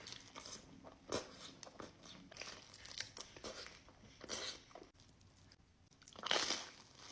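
Close-miked eating of pizza: irregular crunchy bites and chewing, with a louder burst of crunching a little after six seconds in.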